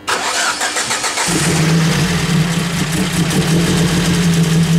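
Ford Focus engine cranked on its starter and catching after about a second, then running at a steady idle.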